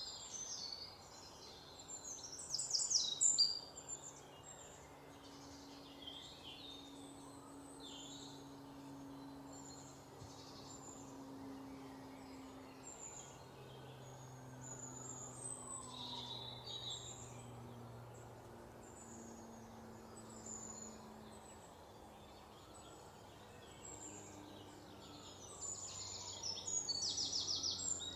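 Several birds chirping and singing over a steady background hiss, with louder rapid trills about three seconds in and again near the end.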